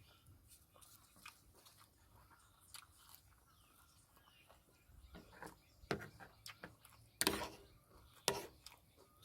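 A person chewing food with wet mouth clicks and smacks, faint at first, with a few louder smacks in the second half.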